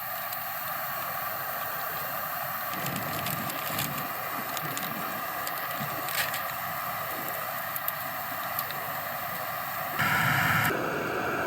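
Portable gas camp stove burning with a steady roaring hiss, with faint scattered clicks and rustles. It gets noticeably louder about ten seconds in.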